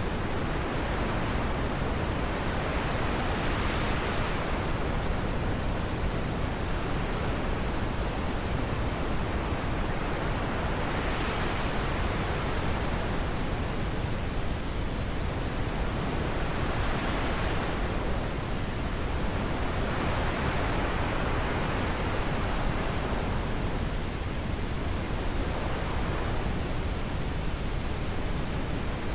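Steady wind noise that swells and eases every several seconds, like gusts.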